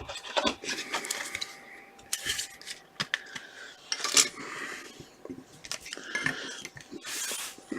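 Trading cards and their packaging being handled: scattered sharp clicks and taps with short rustles, a longer rustle near the end.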